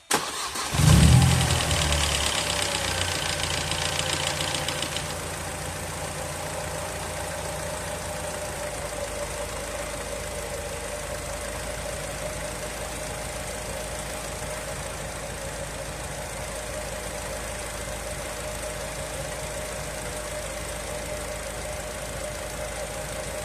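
Mercedes-Benz M111 four-cylinder petrol engine starting: it catches within about a second, runs louder at a raised idle for a few seconds, then settles to a steady idle. This is the first start after an oil and filter change, with the new oil being pumped through.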